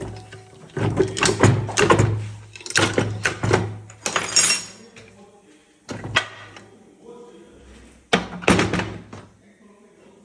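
Heavy metal clunks and knocks from the parts of a Fiat Siena's manual gearbox being handled and taken apart, several separate strikes.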